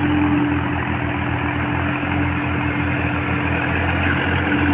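Sonalika RX 55 tractor's diesel engine running steadily, with a constant low rumble and a steady hum.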